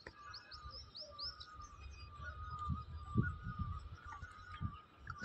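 Birds chirping and calling faintly: a steady, wavering call runs throughout, with a quick run of short high chirps about a second in, over an intermittent low rumble.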